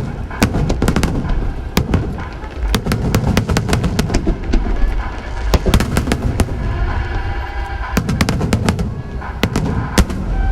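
Fireworks display going off: rapid sharp cracks and pops over a continuous low rumble of bursting shells, with music playing along.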